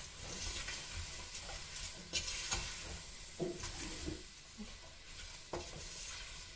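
Pigeon peas, dried shrimp and spices sizzling in hot oil in a pot while they are stirred, with a few short knocks of the spoon against the pot.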